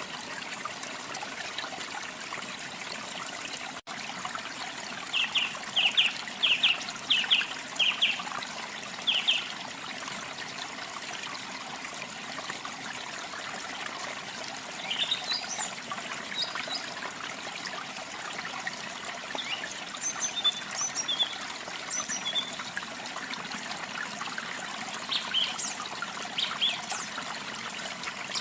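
Running water trickling steadily, with small songbirds calling over it: a run of short, quick notes about five to nine seconds in, then scattered higher chirps later on.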